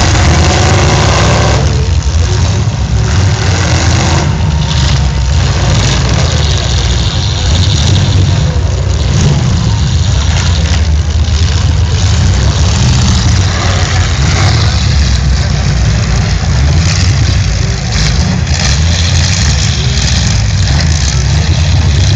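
Demolition derby car engines running in a loud, steady low rumble.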